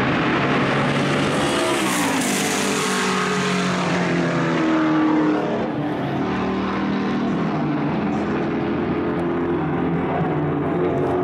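A racing car's engine running hard and passing by about two seconds in, its pitch falling as it goes past, then holding a steadier note.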